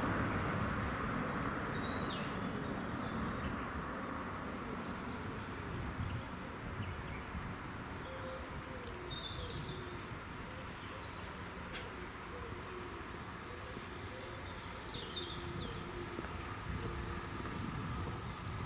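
Small birds chirping and twittering in short scattered calls over a low rumble that fades away during the first few seconds, the tail of a passing train.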